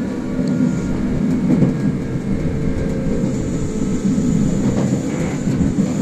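Kintetsu express electric train running along the line, heard from inside the front car: a steady rumble of wheels on the rails with a humming drone underneath.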